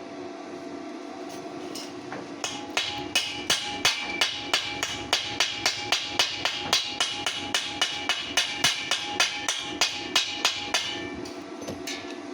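A hammer striking a thin steel square tube in an even rhythm of about three blows a second, each with a metallic ring. The strikes begin about two seconds in and stop about a second before the end, over a steady background hum.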